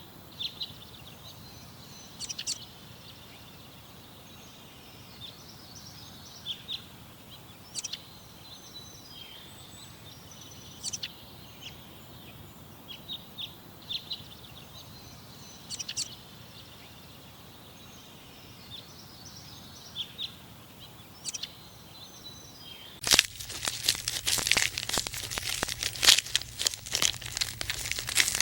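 Scattered short, high bird chirps over a steady background hiss. About 23 seconds in, a sudden loud crackling and crunching takes over.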